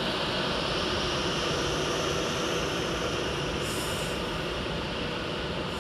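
Electric passenger train running, a steady rushing rumble of wheels on rail with a faint motor hum.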